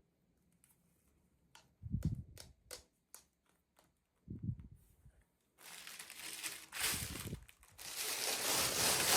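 Plastic packaging being handled and opened: a run of sharp clicks and crackles with a couple of soft bumps, then dense crinkling and rustling that grows louder toward the end.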